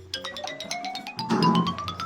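Music: a fast rising run of short xylophone-like mallet notes, climbing steadily in pitch at about eight or nine notes a second.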